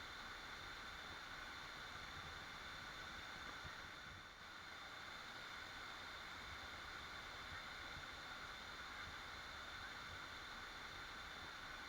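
Waterfall rushing as a steady, unbroken wash of falling water.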